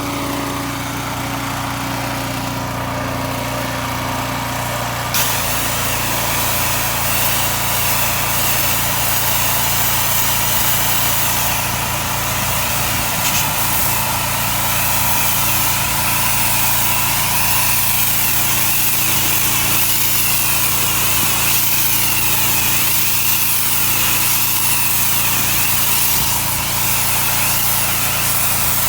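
Engine-driven pressure washer running steadily. About five seconds in, a loud hiss of high-pressure water spray comes in sharply over the engine and carries on.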